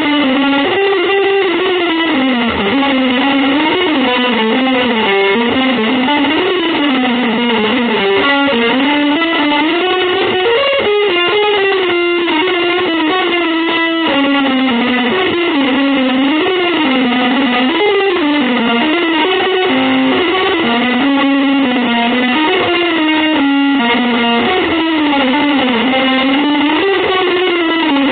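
Electric guitar playing a continuous, fast-moving improvised line through an effects unit, with dense overtones.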